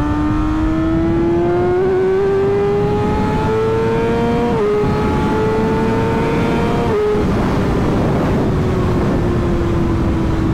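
Yamaha R6's 600 cc inline-four engine pulling hard under acceleration, its pitch climbing steadily, dipping at two upshifts about halfway through, then easing off with the pitch slowly falling.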